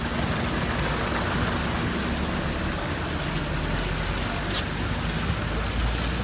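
Steady rain with a vehicle engine running underneath as a low rumble.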